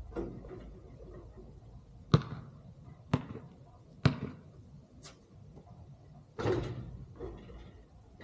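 A basketball bouncing on hard ground: four sharp bounces about a second apart, then a longer, noisier hit a little over six seconds in.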